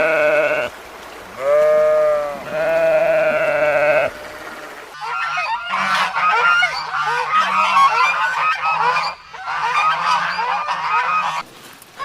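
Farm animals calling: three drawn-out bleating calls in the first four seconds, then from about five seconds in a flock of geese honking over one another, cutting off shortly before the end.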